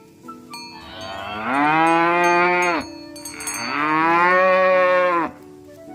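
Cow mooing twice: two long calls, each about one and a half seconds, that rise in pitch at the start and then hold steady before cutting off.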